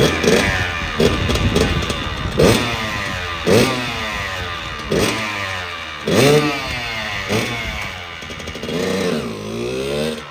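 Two-stroke single-cylinder engine of a Kawasaki KX100 dirt bike, revved up and down again and again, its pitch rising and falling with each blip of the throttle.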